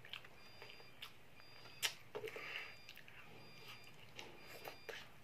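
Close-up chewing and lip-smacking of a child eating chicken satay, with scattered small wet clicks and one sharper click a little before two seconds in.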